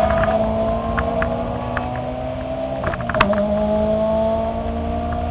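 Car engine running hard under load, heard from inside the cabin on a race track. Its note sags slightly for about three seconds, then a couple of sharp knocks and the note climbs steadily again.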